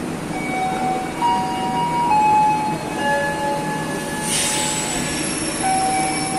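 KA Joglosemarkerto passenger train running on the rails with a steady rumble and high, steady metallic squeals that jump from one pitch to another. A short hiss comes about four seconds in.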